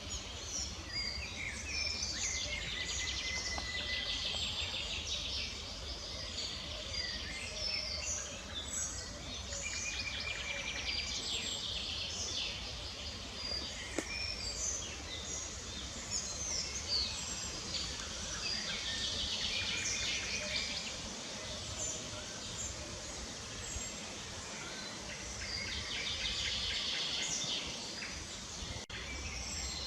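Many small songbirds chirping and trilling at once, short high calls overlapping throughout, over a steady low rumble. A single sharp click about halfway through.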